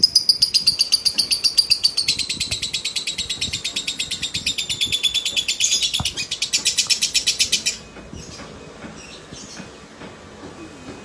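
Female lovebird's long ngekek trill, the unbroken kind that kicau fanciers call konslet: a fast run of shrill chirps, about ten a second, that stops abruptly about eight seconds in. Fainter scattered chirps follow.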